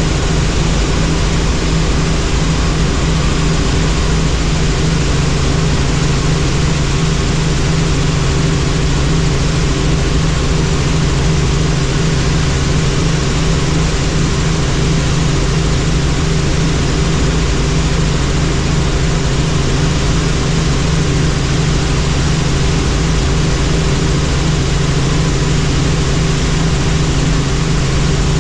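Helicopter in flight: steady engine and rotor noise, a loud even drone with a constant low hum that does not change.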